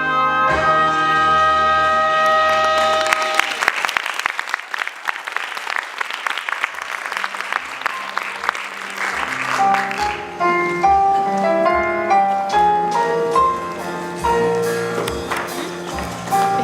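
A pit band holds a closing chord, then the audience applauds for several seconds. About ten seconds in, the band starts a new jazzy number with short, regular bass notes under it.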